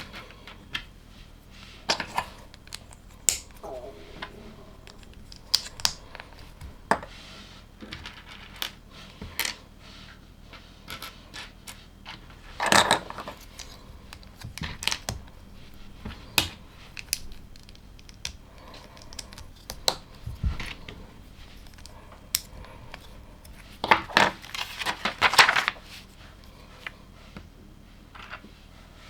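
Small plastic LEGO pieces being handled and clicked together: scattered sharp clicks and light clatters, with two longer rattling bursts, one about halfway and one near the end.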